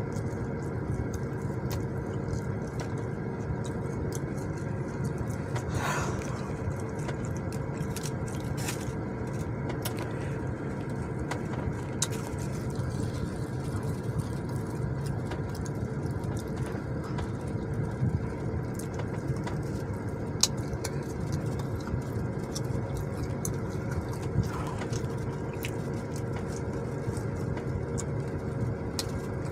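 Steady hum of a parked car running, heard from inside the cabin, with scattered clicks and smacks of someone chewing and biting into a sub sandwich.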